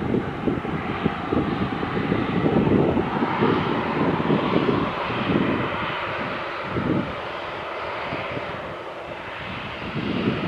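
Jet airliner engine noise, continuous, easing slightly and then swelling again near the end, with wind gusting on the microphone.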